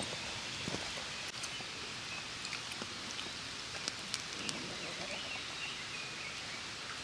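Outdoor campsite ambience: a steady high hiss with scattered small crackles and a few faint, short high-pitched chirps.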